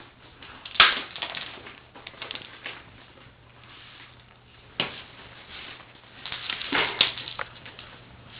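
Short, irregular scuffs, rustles and taps of cats pawing, rolling on and chewing a torn-open catnip toy on the floor, the loudest about a second in and a sharp tap a little before five seconds.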